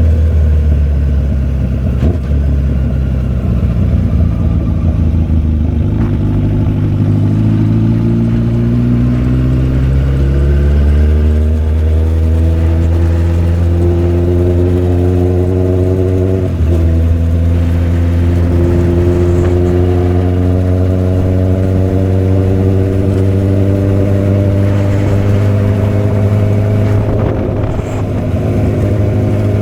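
Motorcycle engine under way. After a drop in pitch about six seconds in, it climbs steadily in pitch for about ten seconds as the bike accelerates. It changes abruptly about two-thirds of the way through, as at a gear change, then holds a steady pitch while cruising.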